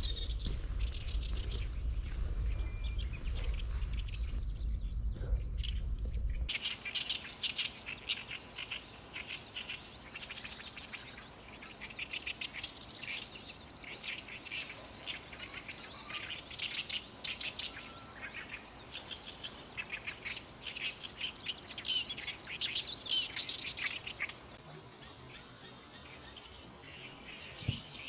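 Songbird singing a long, fast run of short notes in spring, after a few seconds of fainter bird calls over a low rumble.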